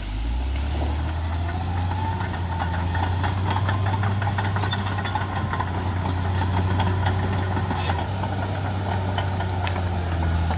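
Caterpillar D6R XL bulldozer's diesel engine working hard with a steady low drone. A whine rises over the first couple of seconds and then holds, with many sharp clicks and cracks over it.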